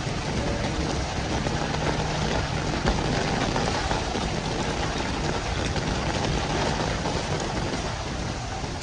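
Heavy rain falling steadily on a city street, with a low steady hum under the downpour for a few seconds.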